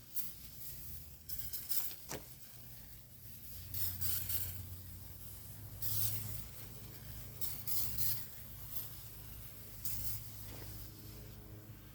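Hand scrubbing and scraping on metal hardware: irregular short rasping strokes, some louder than others, over a steady low hum.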